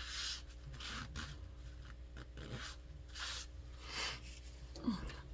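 Painting tools rubbing and scraping across paper in short, quiet strokes, about six or seven of them, with a brief squeak near the end.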